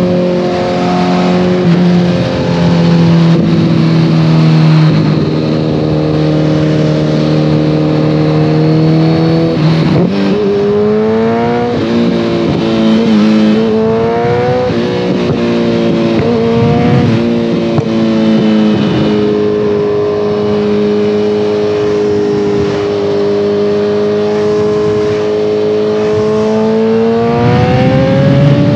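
2014 Kawasaki ZX-14R inline-four running through a Brocks Alien Head 2 full exhaust. It holds a steady cruise, then about ten seconds in pulls through several gears, each a rising note that drops at the upshift, settles back to a steady cruise, and revs up again near the end.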